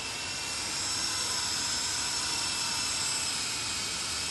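Small electric rotor motors of a SYMA Chinook toy RC helicopter running in flight: a steady high-pitched whine over rotor hiss, rising a little in pitch and level about a second in.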